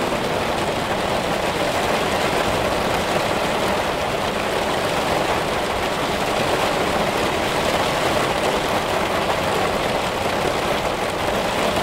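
Heavy rain pouring down, a steady dense hiss that holds even throughout.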